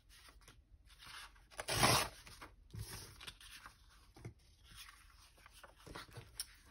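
Paper being torn and handled: one loud tearing rasp about two seconds in, then soft rustles and light taps of paper on the work surface.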